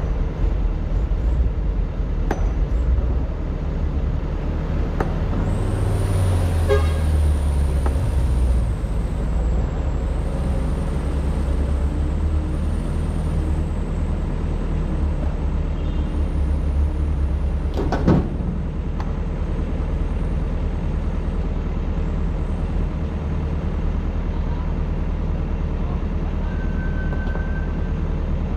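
Excavator's diesel engine running steadily as it digs, working harder for a few seconds at a time, with one sharp knock about two-thirds of the way through.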